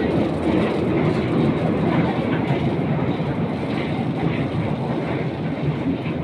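Mini mine train running along its rails: a steady rumble of wheels and carriages.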